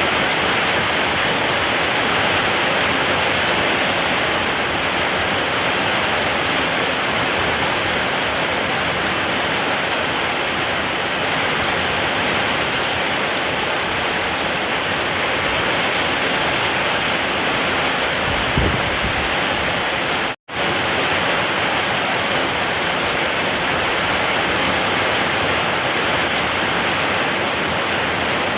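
Steady heavy rainfall, a dense even hiss. There is a brief low thump about two-thirds of the way in, and just after it the sound drops out for an instant before resuming.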